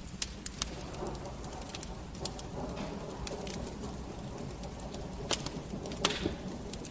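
Wood fire crackling in a fireplace: irregular sharp pops and snaps over a low steady rumble of the flames, with two louder pops near the end.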